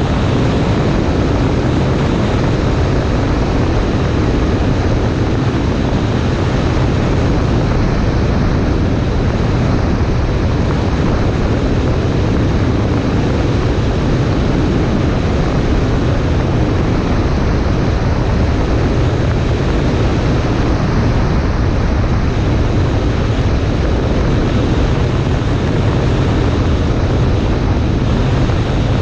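Cessna 140A's piston engine and propeller running steadily, with a constant rush of air.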